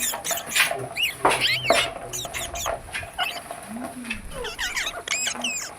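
Parrot calling in a rapid run of short, high squeaks and chirps that sweep up and down in pitch.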